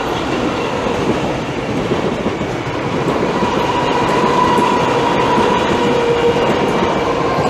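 Class 315 electric multiple unit accelerating past, its traction motors giving a steady whine over the rumble and clatter of wheels on rail, getting slowly louder. The whine comes from the driver notching up under power, likely around notch 3 to 4.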